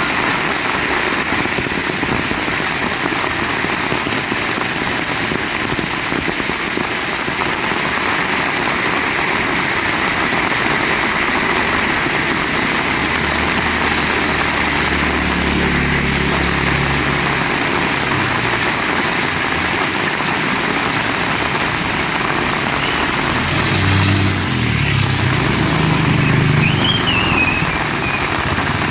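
Heavy rain falling steadily. An engine is heard passing from about halfway through, then again, louder, near the end.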